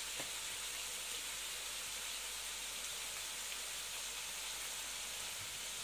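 Diced chicken, carrots and peas sizzling gently in an aluminium pan on a gas burner: a steady, soft hiss.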